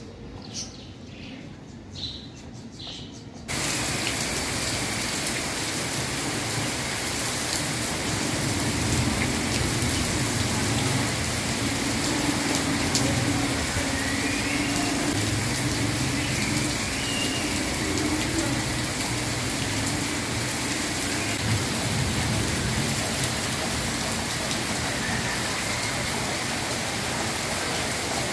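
Heavy monsoon rain coming down in a steady, dense hiss with a low rumble underneath. It starts abruptly about three and a half seconds in, after a quieter opening with a few faint chirping calls.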